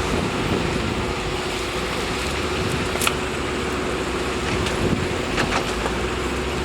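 Engine running steadily with a low rumble and a constant hum. A sharp click comes about three seconds in, and fainter ticks follow near the end.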